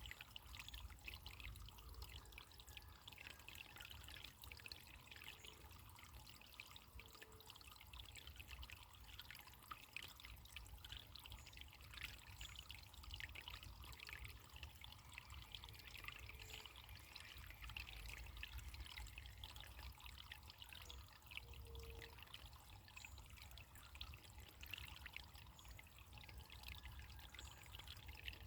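Faint running water trickling and babbling steadily, like a small stream.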